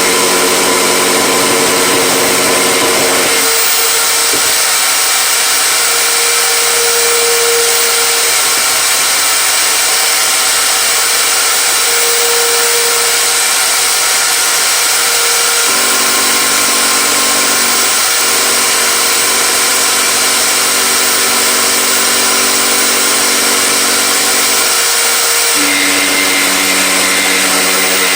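Electric power tool running without a break, a steady motor whine with a rushing noise, its pitch shifting a few times: near the start, about halfway and near the end.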